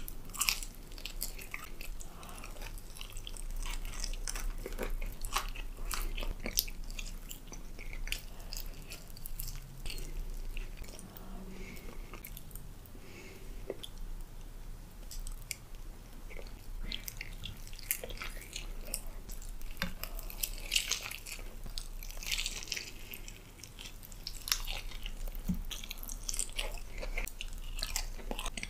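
Close-miked eating: crunchy bites into fried chicken coating and wet chewing, with soft chewing of a spoonful of mashed potatoes around the middle.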